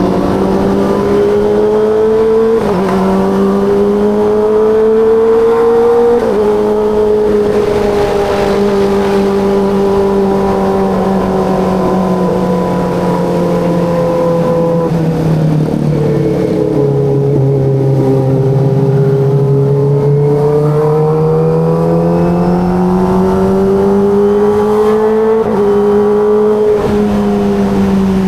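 Kawasaki ZX-25RR's 249 cc inline-four engine running under way at moderate, steady revs. Its pitch wanders slowly, with brief jumps at gear changes about three, six and twenty-five seconds in, and it drops lower for a few seconds past the middle before gradually climbing again.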